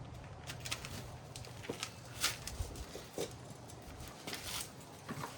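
Scattered light clicks and taps of small parts and tools being handled while parts are refitted to a motorcycle, over a faint low hum that fades out partway through.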